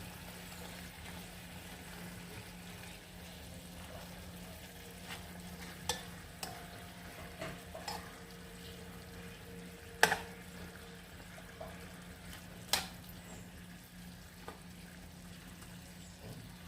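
Chicken pieces sizzling gently in a pot over a low flame, over a steady low hum. A few sharp clicks of a utensil against the pot stand out, the loudest about two-thirds of the way through.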